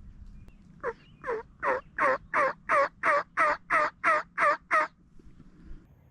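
A series of eleven turkey yelps, about two and a half a second, the first few building in loudness and the rest loud and even, each note dropping in pitch.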